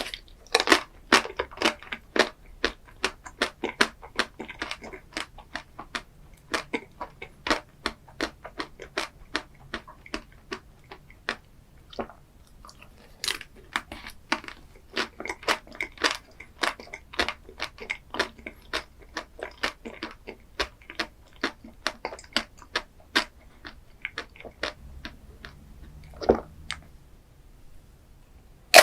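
Close-up eating sounds: a person chewing crunchy food, with a dense run of sharp crackling crunches several times a second and a louder bite at the very end. It fits the cracking chocolate shell of a Magnum ice cream bar.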